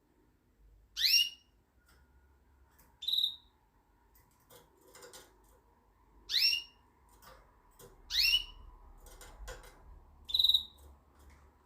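Canary giving separate short calls rather than continuous song: three quick rising, upswept whistles and two brief clear high notes, with a few fainter chirps between them.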